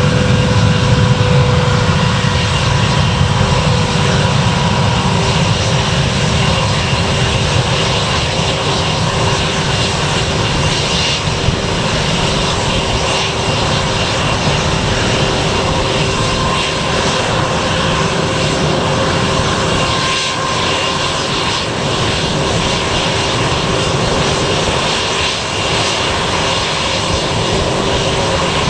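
An airliner's engines running at close range: a loud, continuous drone with steady whining tones over it, easing off only slightly.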